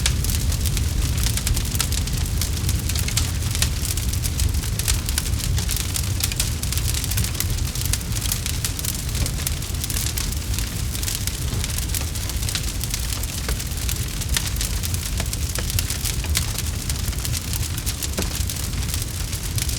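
Campfire crackling: a dense, steady stream of small pops and snaps over a low continuous rumble.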